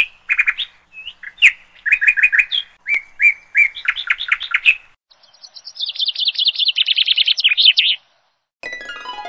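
A songbird singing: short chirping notes, then a fast trill of rapidly repeated notes that lasts about three seconds. After a short pause, music starts near the end with a quick falling run of notes.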